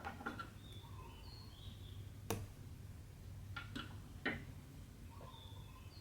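About five small, sharp clicks and taps from hand-stitching work, the loudest about two seconds in and just past four seconds. Short high bird chirps sound in the background around a second in and again near the end, over a steady low hum.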